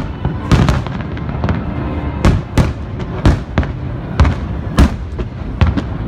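Aerial fireworks shells bursting one after another, about a dozen sharp booms at uneven intervals over a continuous low rumble.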